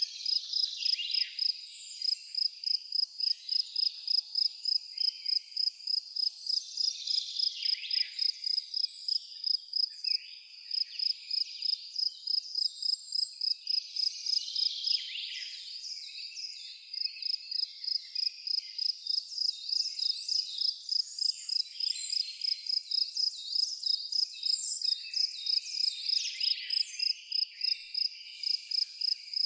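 An insect, cricket-like, chirping in an even high-pitched pulse two or three times a second, briefly dropping out twice, with scattered small bird chirps behind it.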